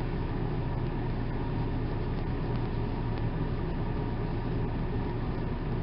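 Steady low hum with a noisy rumble under it, unchanging throughout.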